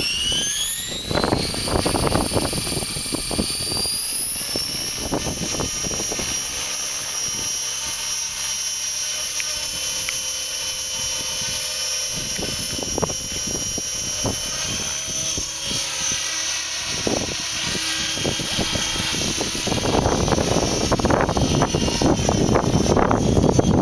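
Radio-controlled T-REX 600 helicopter spooling up: its whine rises in pitch over the first four seconds, then holds steady and high. Wind buffets the microphone, heavier near the end.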